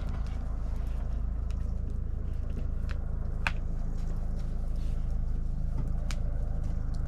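Wood campfire burning: a steady low rumble with scattered sharp crackles and pops from the wood, the loudest about three and a half seconds in.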